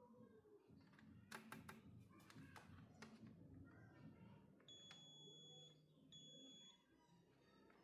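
A few sharp clicks, then two short electronic beeps, each held steady for well under a second with a brief gap between them.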